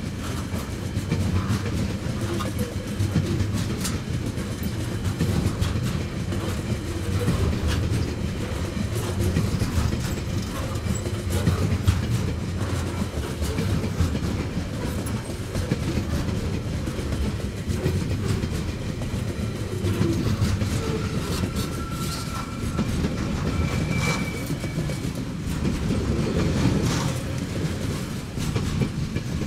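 Freight wagons of a long train rolling past close by: a steady low rumble with the wheels clacking on the rails. A brief thin whine comes in about two-thirds of the way through.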